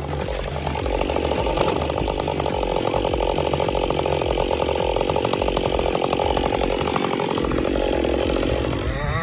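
A chainsaw running under load, cutting through a log. It keeps a steady, fast-pulsing drone and fades out near the end.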